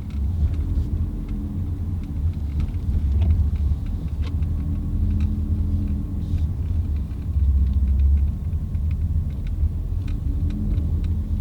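Steady low rumble of a car engine running, heard from inside the cabin, with scattered faint small clicks.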